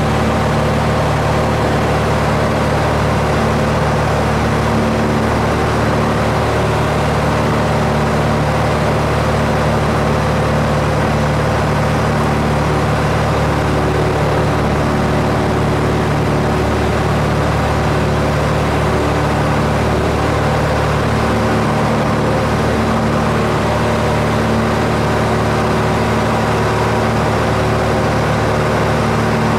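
Aircraft engine running steadily at a constant pitch, with no change through the whole stretch.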